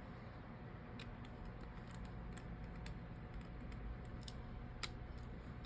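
Faint, irregular light clicks of a small precision screwdriver and tiny screws being fitted to a phone's motherboard, over a low steady hum.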